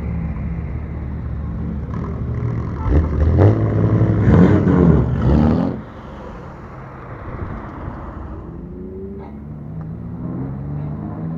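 Modified bosozoku-style cars with loud exhausts idling and revving. A loud burst of revving from about three to six seconds in cuts off suddenly. Near the end another engine rises in pitch as it accelerates.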